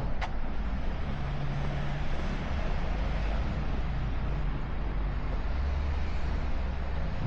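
Steady outdoor city background noise: a low rumble with an even hiss over it. There is a brief click just after the start.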